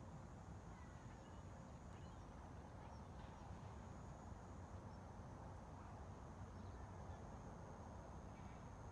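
Faint, steady outdoor ambient noise, mostly a low rumble, with a thin steady high tone and a few faint, scattered bird chirps.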